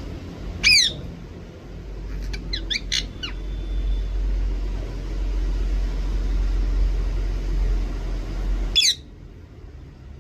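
Pet parrot squawking: one loud harsh call, a quick run of short sweeping calls a couple of seconds later, then another loud call near the end, over a low rumble that cuts off suddenly with the last call.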